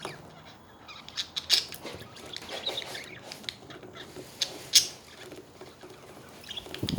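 Budgerigars chattering in short, high chirps, broken by a few sharp clicks, the loudest about one and a half and nearly five seconds in.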